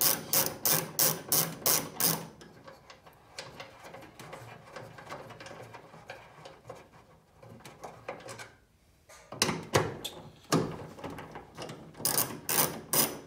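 Socket ratchet clicking in quick, regular strokes, about three to four a second, as the bolts of a car's trunk latch assembly are undone. The strokes stop after about two seconds, giving way to fainter scattered clicks and a couple of single knocks. Steady ratcheting starts again near the end.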